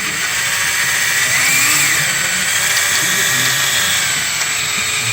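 Power drill running steadily under load, boring out a broken EGR bolt in a 6.7 diesel engine, with a slight change in pitch about a second and a half in.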